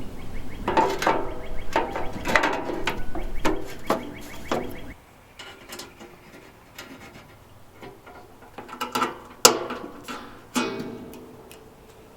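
Metal tools and parts clinking and clanking with ratchet-like clicks, a dense run of knocks over the first five seconds, then a few louder clanks about nine to ten and a half seconds in.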